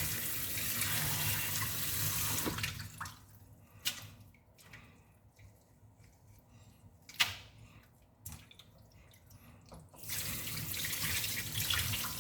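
Water running from a tap into a sink, shut off after about two and a half seconds. A few sharp knocks follow in the quiet, and the water is turned back on about ten seconds in.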